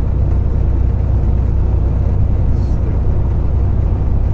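Steady low drone of a semi truck's engine and road noise, heard inside the cab while cruising at highway speed.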